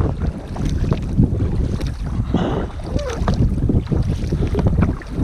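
Wind buffeting the microphone over water slapping and splashing around a kayak in small choppy waves, with a brief wordless vocal sound about two and a half seconds in.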